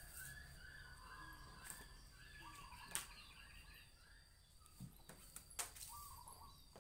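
Faint birds chirping in short repeated calls, with a sharp tap about three seconds in and a couple more near the end.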